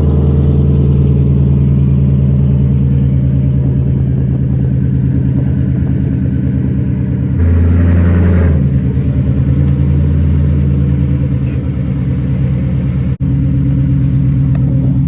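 Ford Mustang engine idling steadily while it warms up after a cold start, having sat for two to three days. A short blip of the throttle about seven and a half seconds in, then it settles back to idle.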